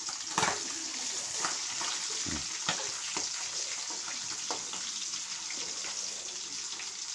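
Food sizzling as it fries in oil in a wok, with the occasional click of a metal spatula against the pan as it is stirred.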